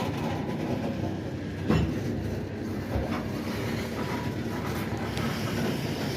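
Freight train cars rolling past on the rails: a steady rumble with a sharp knock a little under two seconds in.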